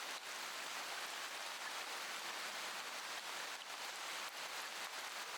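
Steady rain falling, an even hiss with small patters in it.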